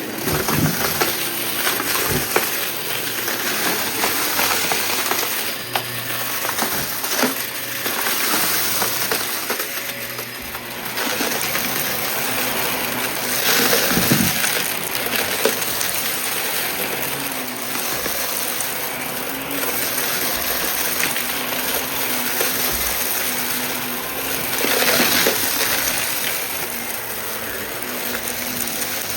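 Upright vacuum cleaner running, with debris rattling and crackling as it is sucked up. The sound swells twice, about halfway through and again near the end.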